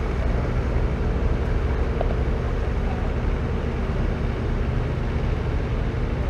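An engine running at a steady idle: a low, even rumble that does not change.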